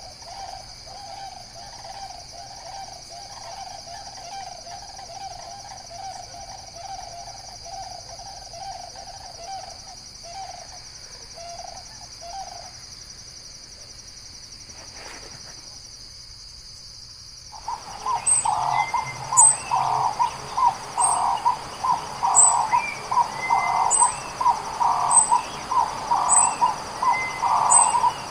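Wild bird calls in two recordings. First comes a continuous trilling call over a steady high insect-like hum, which fades out after about 13 seconds. After a short lull, a louder bird starts a run of evenly repeated hooting notes, about one and a half a second, with high chirps from other birds above.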